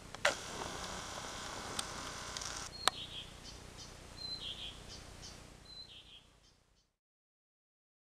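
A click and a stretch of hiss with two sharp clicks, then a bird chirping three times, each a short high note that drops slightly in pitch; the sound then fades out to dead silence.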